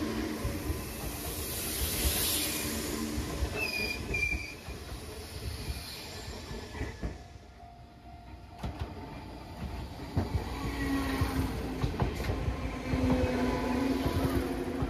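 Enoden (Enoshima Electric Railway) train running along the line: a steady rumble of wheels on rail, with a brief high wheel squeal about four seconds in. It quietens around the middle and grows louder again near the end.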